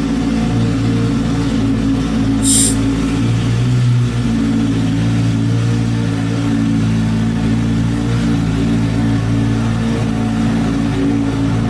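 C8 Corvette Z06's flat-plane-crank V8 with an aftermarket exhaust, running at a steady, even pitch. A brief hiss comes about two and a half seconds in.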